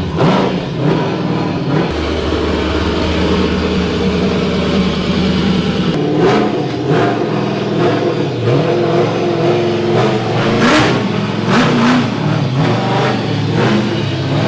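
LS V8 engine of a swapped car running under way, holding a steady note for a few seconds, then revving up and down several times as it accelerates.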